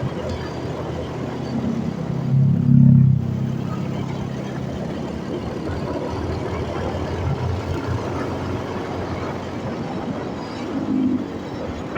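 Road and wind noise while riding a motorcycle in traffic, with a louder low vehicle rumble swelling about two to three seconds in and a smaller swell near the end.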